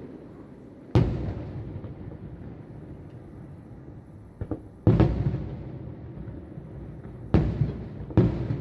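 Distant aerial firework shells bursting, four heavy booms a few seconds apart with a smaller crack before the second, each boom followed by a long rolling echo.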